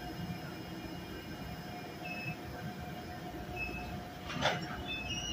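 NJ Transit GE Arrow III electric multiple-unit train rolling along the track with a steady rumble and hum, and brief faint wheel squeals. A short, louder burst of noise comes about four and a half seconds in.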